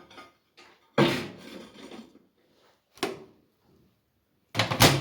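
Microwave oven being handled: a knock about a second in, a sharp click near three seconds, and a loud double thunk near the end, typical of the microwave door being shut, with a brief ringing after it.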